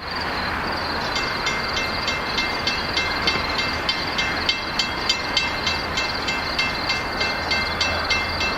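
Circus train running by on the rails, a steady rumble with a regular ringing click about three times a second starting about a second in.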